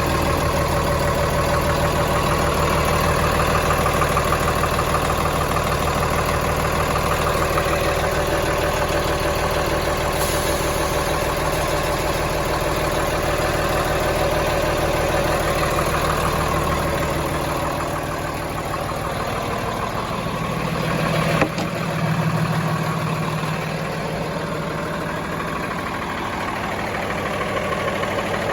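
Diesel engine of a 2010 Freightliner M2-106 dump truck idling steadily. About two-thirds of the way through, the deep low hum drops away, and there is a single short click a few seconds later.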